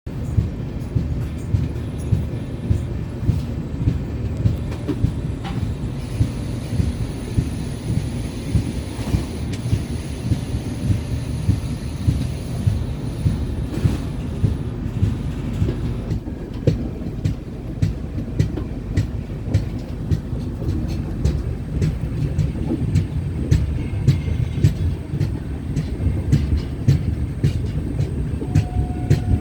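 Indian Railways express passenger train running at speed, its wheels clicking over rail joints in a steady rhythm of about two beats a second over a continuous rumble.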